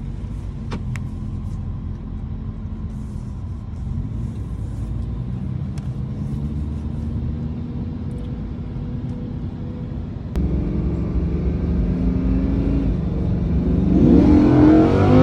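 Naturally aspirated V10 engine running steadily at low revs. It gets louder about ten seconds in, then revs up near the end with a rising pitch.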